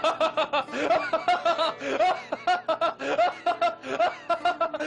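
Laughter: a steady run of short, rapid "ha-ha" bursts.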